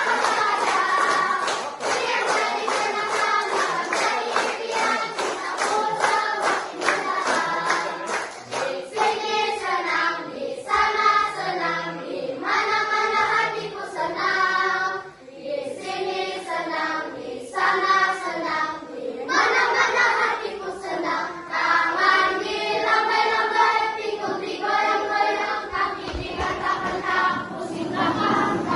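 A group of children singing together in phrases. A steady clapped beat runs under the singing for the first several seconds, then stops.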